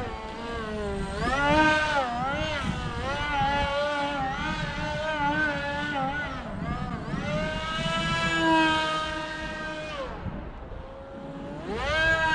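D2205 brushless motor and propeller of an RC model plane whining in flight, its pitch rising and falling with the throttle. About ten seconds in the whine drops away as the throttle is cut, then climbs sharply again near the end.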